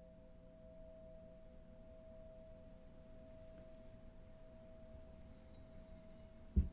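Faint ambient meditation drone of a few steady, held tones, one of them pulsing gently. A short low thump sounds near the end.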